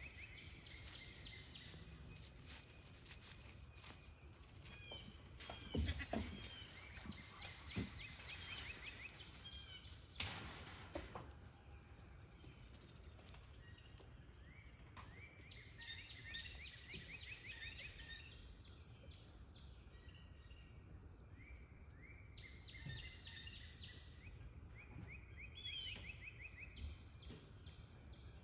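Birds chirping in repeated short trills over steady outdoor noise, with a few soft thumps about a third of the way in.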